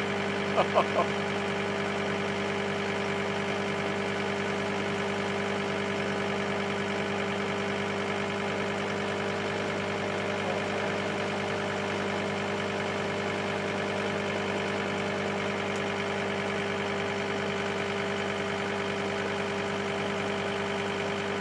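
Engine of a bucket loader idling steadily with a constant, even hum.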